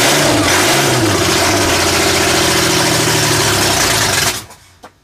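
Supercharged Ford V6 engine running very loud just after firing up. Its pitch rises and falls twice in the first second or so, then it holds a steady run, and it cuts off suddenly about four seconds in.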